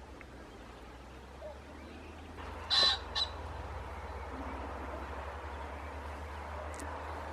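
Common pheasant cock crowing: one loud, harsh two-note call about three seconds in, the second note shorter.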